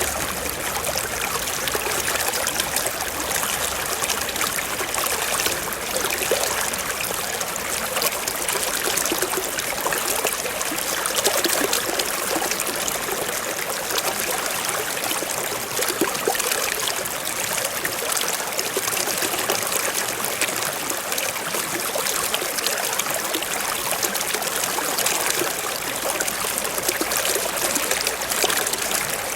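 Forest stream flowing steadily over rocks, a continuous bright trickling and babbling of water.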